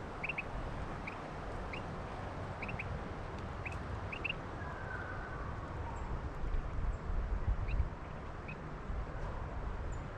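A small bird calling with short, repeated chirps, about one or two a second and some in quick pairs, over the low rumble of wind on the microphone.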